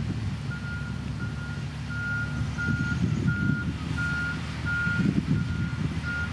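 A heavy construction machine's reverse alarm beeping at one steady pitch, about nine beeps at roughly one and a half a second, over its diesel engine running.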